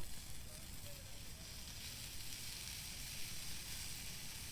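Hot dogs sizzling in a stainless steel pan over a high flame: a steady, even sizzle with a low rumble underneath.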